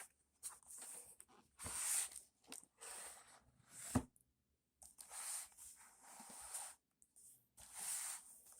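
Cardboard shipping box and its packaging being handled and opened: a series of short scratchy rustling and tearing noises, with one sharp knock about four seconds in.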